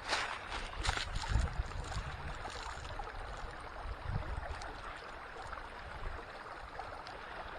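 Small creek running and trickling, with brief low gusts of wind buffeting the microphone.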